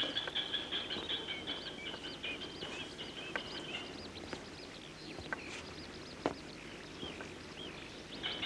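Birds chirping, with many short scattered calls over a steady high trill that fades out about four seconds in, and a few sharp clicks.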